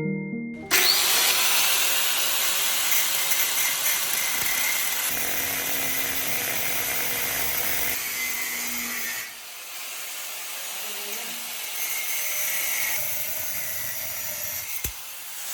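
A power tool running under load, a dense steady noise that drops quieter about two-thirds of the way through.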